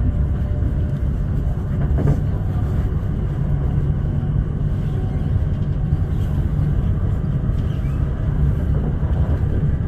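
Steady low rumble of a Class 345 electric train running at speed, heard from inside the carriage: wheels on rails and running gear, with one faint click about two seconds in.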